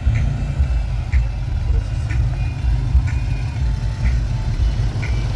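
Car engine running at low revs with a deep, steady rumble as the car rolls slowly by; a faint tick sounds about once a second.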